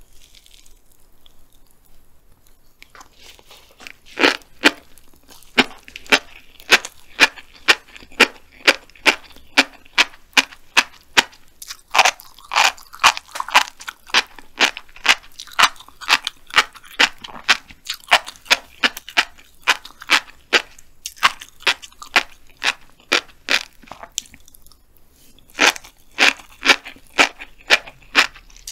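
Close-miked chewing of a mouthful of black flying fish roe: a steady run of crisp, crunchy pops about two a second, starting a few seconds in, with a brief pause near the end.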